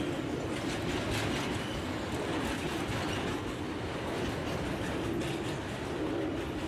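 Freight train wagons rolling along the track with a steady rumble of wheels on rail, broken by many quick clicks of wheels passing over rail joints.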